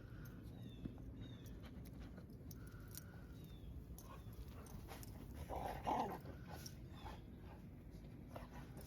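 A dog faintly whining in short calls, with one louder yelp about six seconds in.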